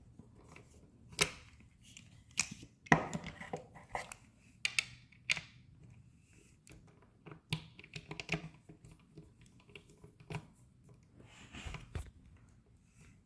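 Irregular clicks, taps and short scrapes of stool parts and a hand tool being handled during assembly, with the sharpest knocks about one, three and five seconds in.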